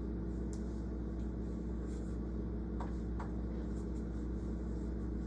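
Steady low electrical or mechanical hum with a faint hiss, with a few faint clicks about halfway through.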